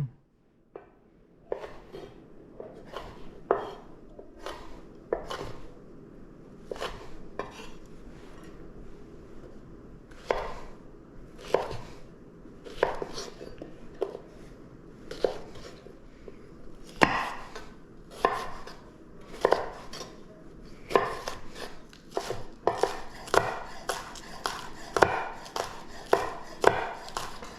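Kitchen knife chopping on a cutting board, single cuts spaced about a second apart at first, then quicker runs of cuts over the last few seconds.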